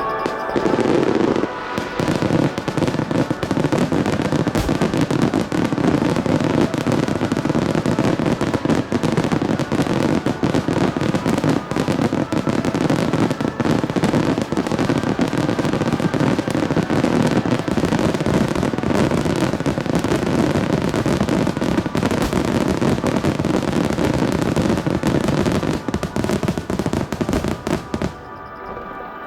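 A dense, unbroken barrage of fireworks shells bursting and crackling in rapid succession, the rapid-fire finale of a starmine display. It drops away abruptly just before the end.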